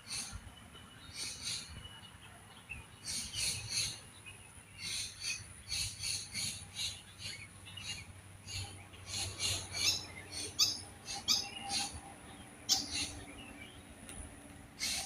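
Wild songbirds calling in clusters of short, quickly repeated high chirps, over a steady thin high-pitched tone.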